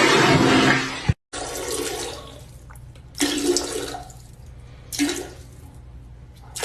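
Loud rushing water that cuts off abruptly about a second in, followed by three short pitched calls spaced about two seconds apart.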